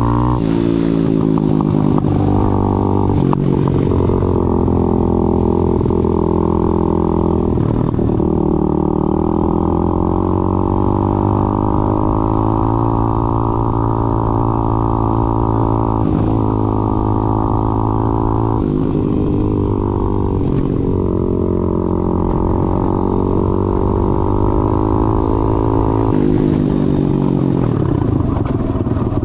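Daytona 190cc four-stroke single-cylinder pit bike engine under way, pulling through the gears. The pitch climbs, drops sharply at each shift, holds at high revs for long stretches, and falls away near the end.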